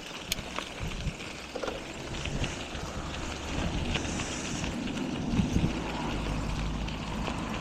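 Wind buffeting the microphone and steady rolling road noise from riding a bicycle.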